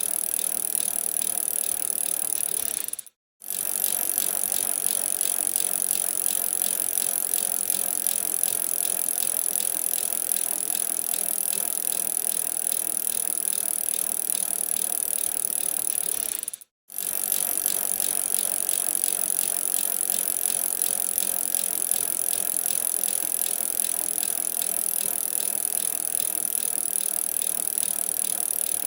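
Bicycle riding on a winter street: a steady rushing hiss of tyres and air with a light rattle, dropping out abruptly to silence for a moment about three seconds in and again just past halfway.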